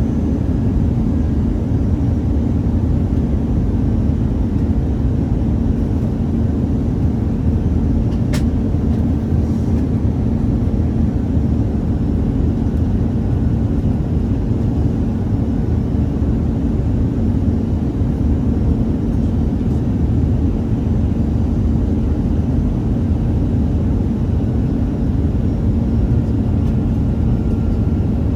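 Airbus A319 cabin noise: a steady, loud low rumble of the jet engines and airflow with a constant hum through it, and one small click about eight seconds in.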